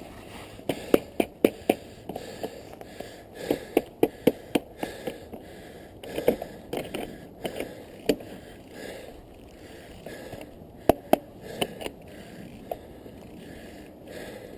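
Mountain bike ridden over a snowy trail: a steady rolling hiss with irregular sharp clicks and knocks from the bike, bunched in quick runs in the first half and a pair of loud ones near the end.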